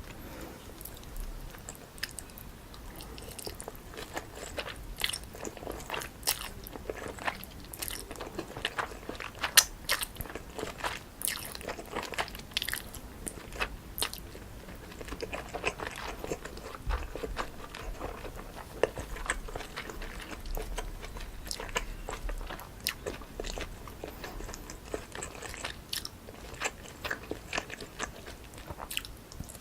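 Close-miked eating of spicy cold chewy noodles (jjolmyeon): irregular chewing and biting with many sharp, crisp crunches.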